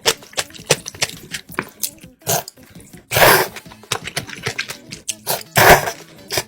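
Close-miked eating of soybean noodles and kimchi: many small wet mouth clicks and chewing, with two louder noisy slurps, one about three seconds in and one near the end.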